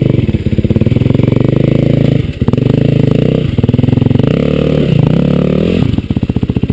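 Dirt bike engine running hard, its revs rising and falling repeatedly as the throttle is worked, with short drops in revs about two, three and a half, and five seconds in.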